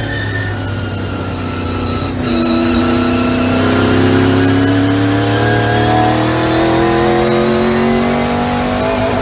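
ASA race car engine pulling hard under acceleration, with a brief break in the note about two seconds in, typical of an upshift, then revs climbing steadily through the gear.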